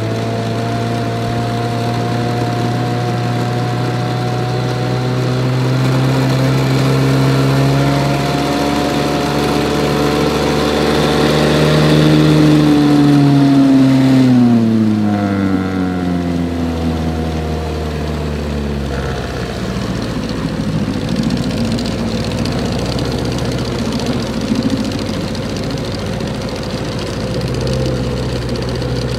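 1971 Johnson 9.5 horsepower outboard, a two-cylinder two-stroke, running under way. Its pitch climbs a little, then drops steeply about halfway through as it is throttled back to a lower, rougher running speed, and it picks up again near the end.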